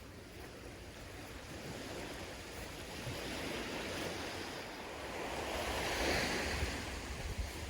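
Sea waves washing onto the shore, a steady rushing hiss that swells to a peak about six seconds in.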